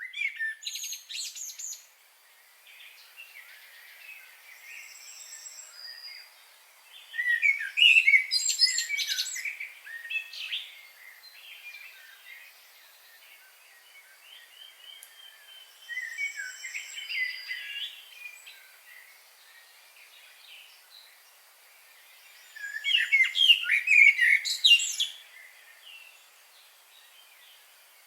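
Several songbirds singing in rapid, chattering bursts of chirps and trills, loudest at about a quarter, just over half, and most of the way through, with quieter calls between.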